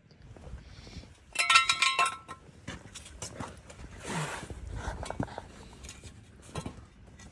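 A brief burst of metallic clinking and jingling about a second and a half in, with small metal pieces ringing against each other. Scattered light clicks and a short rustling follow.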